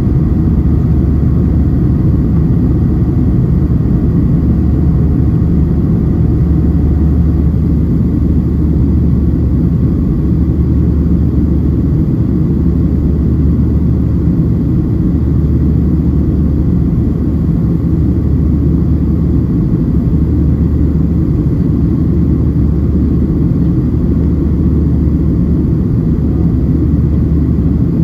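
Cabin noise of a Boeing 737-700 with CFM56-7B engines: a loud, steady low rumble of engines and airflow.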